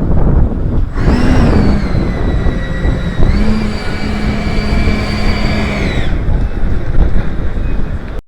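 Whine of an RC model L-39 jet's ducted fan spooling up for taxiing: it rises about a second in, sags slightly, steps up again, then cuts off near the end, over a heavy low rumble.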